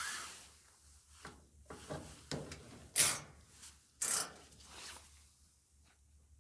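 Irregular rubbing and scraping of hands and parts being worked on during dryer disassembly or reassembly. The two loudest are short sharp scrapes about three and four seconds in, and it goes quieter near the end.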